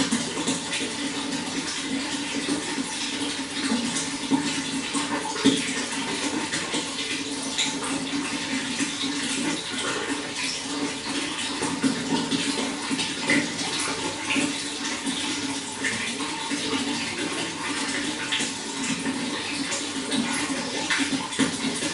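Running water flowing and splashing steadily, a continuous rush with small droplet splashes.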